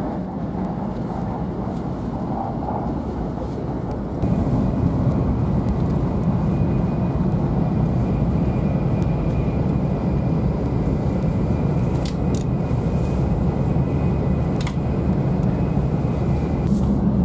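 Steady rumble and rush of a Shinkansen train running at speed, heard inside the passenger car. It grows louder about four seconds in, and a faint high whine runs from then on.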